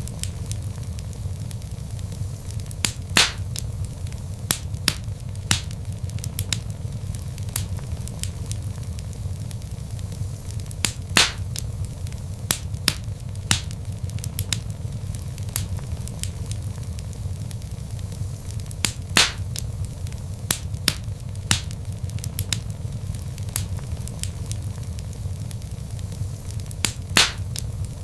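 Log fire crackling, with irregular sharp pops and snaps, a few louder ones spaced several seconds apart, over a steady low rumble of the flames.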